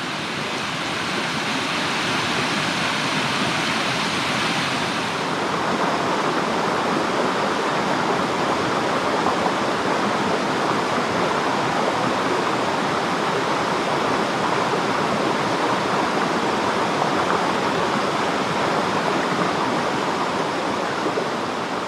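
Water rushing in a creek, a steady even sound that grows a little louder over the first few seconds and then holds.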